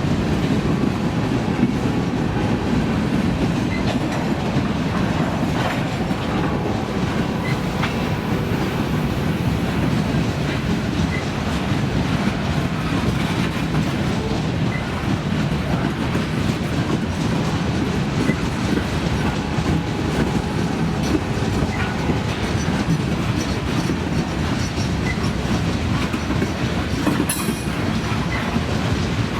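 Freight train cars rolling past in a steady low rumble, with wheels clicking over the rails.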